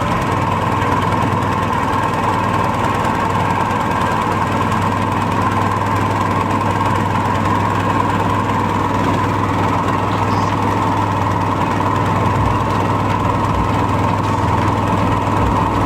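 Predator 224cc single-cylinder four-stroke engine on a long-tail mud motor running steadily at a constant speed.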